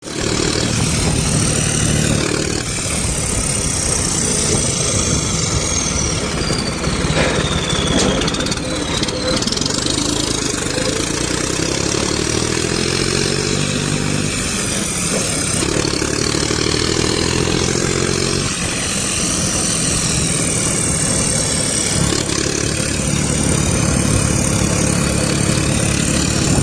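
Tractor engine running without a silencer, its exhaust note loud and unmuffled, with the engine speed rising and falling several times.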